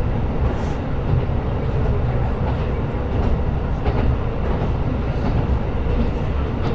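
Steady running rumble heard inside a KiHa 125 diesel railcar, the engine and wheels on the rails, with a few faint clicks scattered through it.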